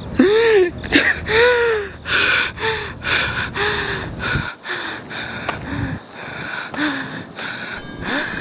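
A man gasping and whimpering in fear with ragged breaths, a short rising-and-falling voiced sound about once a second, growing weaker after the first few seconds.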